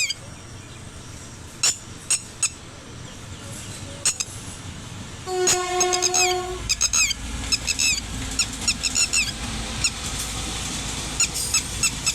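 Small birds chirping over and over while an Indian Railways WAP-5 electric locomotive hauling a local passenger train sounds one horn blast of about a second and a half, midway through. After the horn the low rumble of the arriving train grows.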